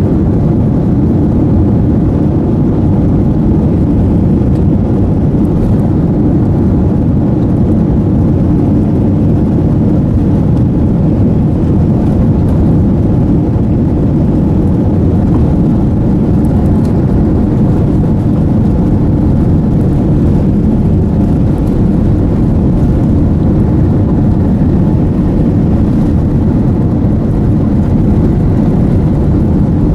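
Steady, loud engine and airflow noise inside the cabin of a Boeing 787-9 airliner under power, a low, even rumble that neither rises nor falls.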